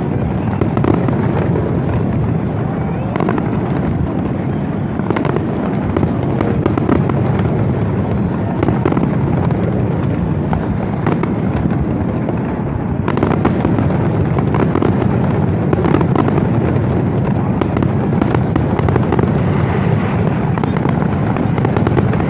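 New Year fireworks display going off in a dense, continuous barrage of overlapping bangs and crackles with no let-up.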